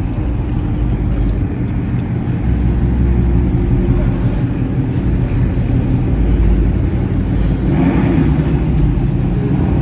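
Car engine running at low revs with a deep, steady rumble, with a brief louder swell about eight seconds in.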